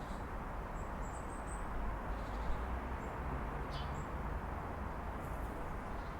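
Steady distant city traffic hum, with a few short, high bird chirps about a second in and again near the middle.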